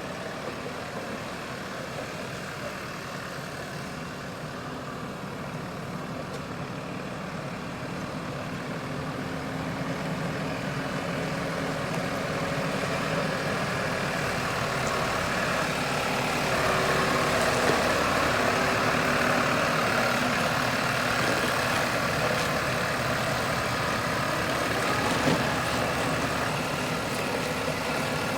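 Case IH 105C tractor's diesel engine running steadily, growing louder about a third of the way in and then holding at the higher level. There is one short sharp sound near the end.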